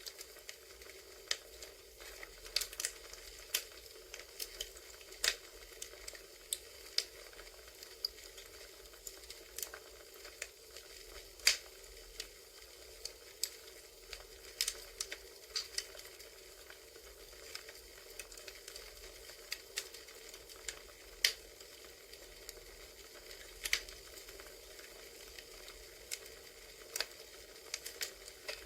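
Wood fire crackling from a campfire ambience track: irregular sharp pops and snaps over a soft steady hiss.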